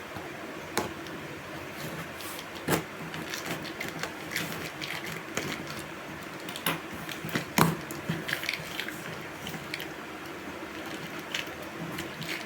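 Handling noises while unboxing notebooks and study material: irregular short knocks, taps and rustles of paper and packaging, the sharpest about a second in, near three seconds and about two thirds of the way through, over a steady room hiss.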